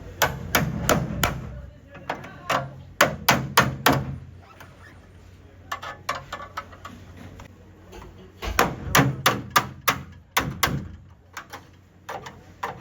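Hammer blows on car body sheet metal in three quick runs of sharp strikes, with quieter gaps between them: panel beating to straighten the crash-damaged bodywork.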